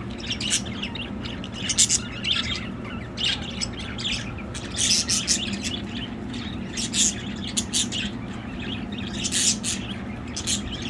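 Pet budgerigars chirping in short, high bursts at irregular intervals.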